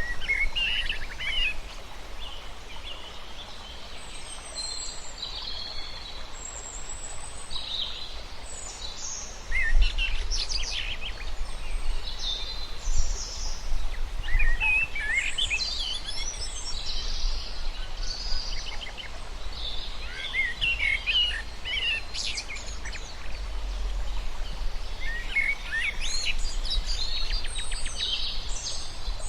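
Several birds chirping and singing, with many short, overlapping calls and trills throughout, over a steady low rumble.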